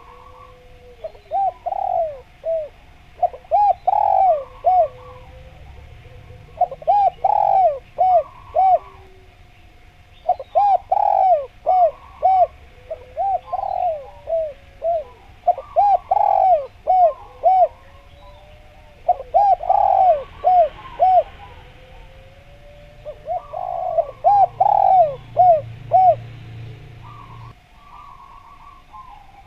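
Spotted dove (derkuku) cooing vigorously in repeated bouts, each a quick run of several coo notes, about every three to four seconds.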